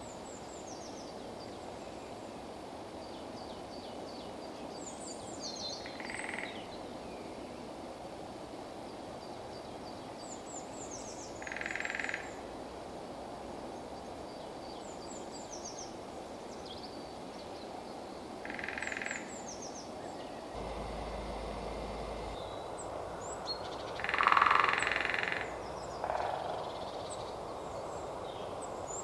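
Lesser spotted woodpecker drumming: four short, rapid rolls, about one every six or seven seconds, the one near the end the loudest. Other small birds sing thin, high phrases in between.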